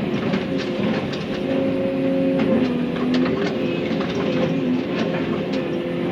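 Excavator's diesel engine running with its hydraulics working, the engine note shifting in pitch a few times, with scattered sharp cracks and knocks throughout.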